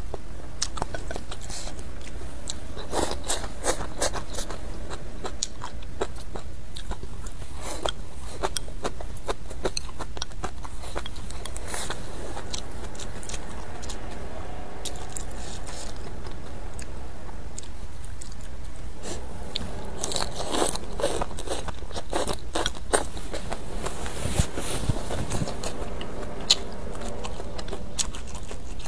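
Close-up chewing and biting of hotpot food and rice, in irregular clusters of wet mouth clicks and smacks.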